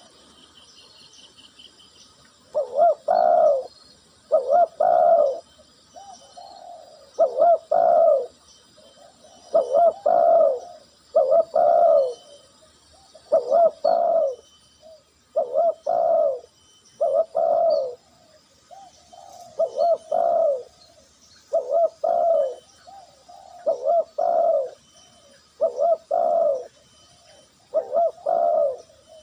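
A dove cooing: a short phrase of several notes repeated about every two seconds, steady and loud throughout, the call of a decoy dove used to lure wild doves.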